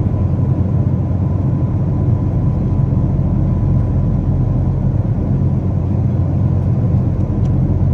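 Boeing 777 cabin noise: a loud, steady low drone of engines and airflow heard from inside the cabin, with a thin steady whine above it.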